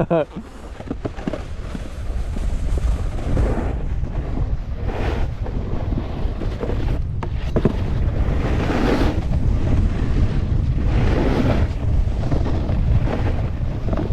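Wind rushing over a GoPro's microphone during a snowboard run, with the board hissing and scraping over the snow in swells that rise and fade every few seconds.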